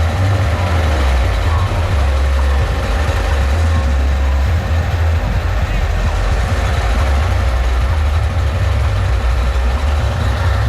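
Sound system of a miniature 'sound horeg' rig playing a very loud, steady deep bass drone, with the voices of a crowd underneath.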